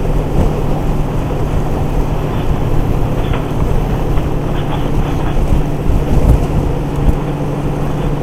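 Motorcycle cruising at highway speed, about 70 mph: wind rushing over the microphone with a steady engine and road drone beneath it.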